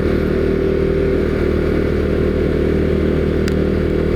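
Husqvarna Svartpilen 401's single-cylinder engine running at a steady speed while the motorcycle is ridden, the pitch holding even throughout.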